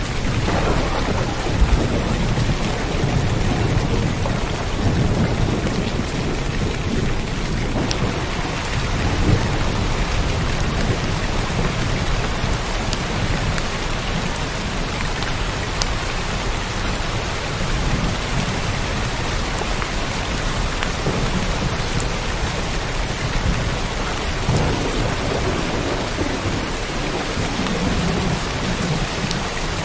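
Steady rain falling, with thunder rumbling low underneath, loudest in the first few seconds and rolling on more softly afterwards.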